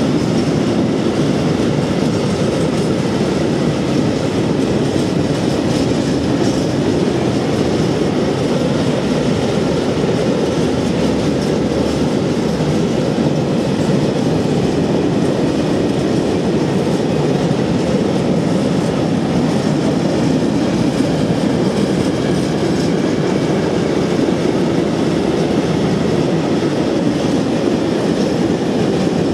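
Freight train of high-sided open wagons rolling past at close range: a loud, steady rumble of steel wheels on the rails, with a faint high squeal above it.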